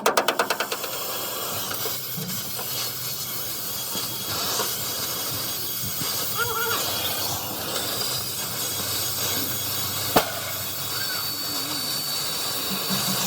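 A steady hiss, with a single sharp click about ten seconds in.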